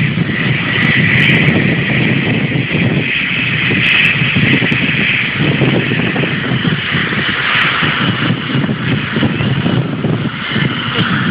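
Jet airliner engines running, a loud, steady rushing noise with a higher hiss that swells and fades slowly.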